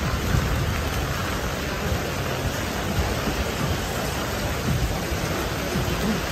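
Heavy rain falling steadily on a clear plastic umbrella overhead and on the wet street, with irregular low thumps underneath.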